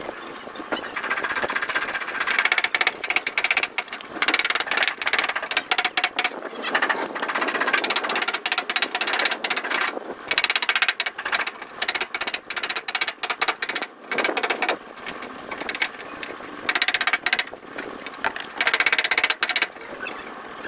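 Rapid, repeated hammering on car body metal in bursts of one to three seconds, with short pauses between.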